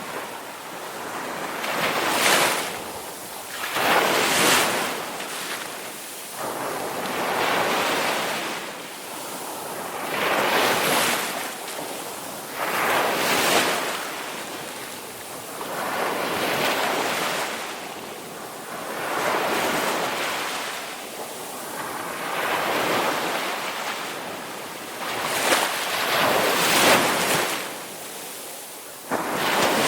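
Ocean waves breaking and washing on a shore, a hiss of surf that swells and fades every few seconds.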